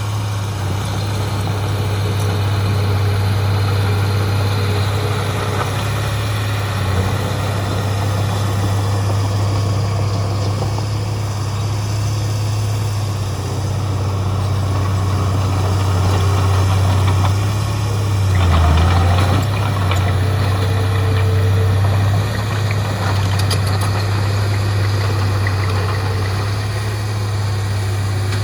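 Heavy diesel earthmoving machine engine running steadily with a deep, even hum. It swells briefly in loudness about two-thirds of the way through.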